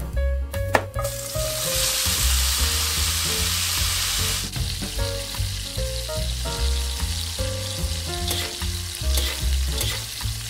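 Minced beef frying in oil in a wok. It sizzles loudly from about a second in, then settles to a quieter sizzle about halfway through, while a metal spatula stirs and scrapes it. A couple of cleaver chops on a wooden board come at the very start, with background music throughout.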